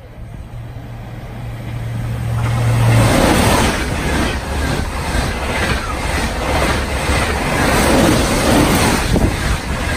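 Double-deck OUIGO TGV passing a station platform at speed. Its noise rises over the first three seconds, then becomes a loud, steady rush with a regular beat as the wheelsets go by. A low steady hum underneath stops as the train arrives.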